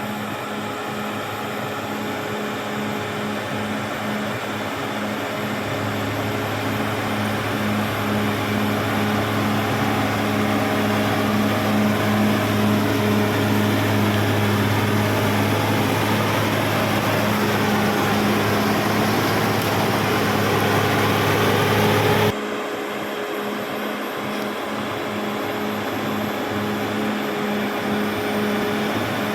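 Caterpillar D6R XL bulldozer's diesel engine running steadily with a constant pitched drone. A deeper tone joins about six seconds in and the sound grows louder, then about three-quarters of the way through it drops suddenly to a quieter level and carries on.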